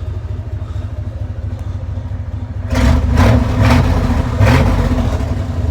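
Freshly rebuilt 7.5-liter 460 big-block V8 of a 1988 Ford F Super Duty dump truck running at a steady low idle, then growing louder about three seconds in, with three brief surges.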